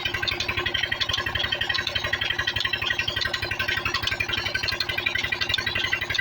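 Diesel engine running steadily, its firing beating out rapid, even pulses over a constant clatter.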